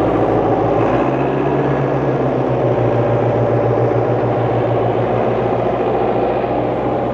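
International 785 tractor's engine running under way as the tractor is driven briskly. Its note steps up about a second in.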